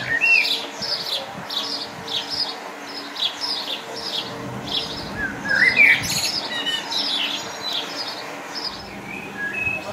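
Small birds chirping and singing: a run of short, high notes repeated about two or three times a second, with a rising whistled phrase about six seconds in.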